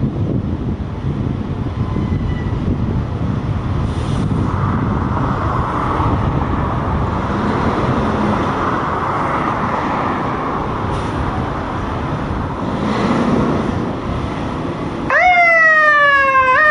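Traffic and wind rumble, then about fifteen seconds in a fire engine's electronic siren switches on in a fast yelp, its pitch sweeping over and over about two to three times a second and louder than anything before it.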